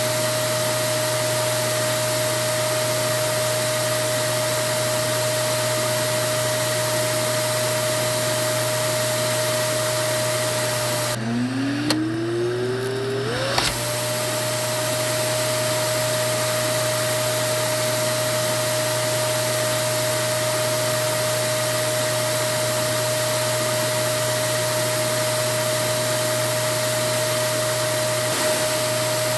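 Vacuum cleaner motor running with a steady whine and rushing hiss. About eleven seconds in, the hiss drops away for a couple of seconds and the pitch falls low, then climbs back up to the usual whine.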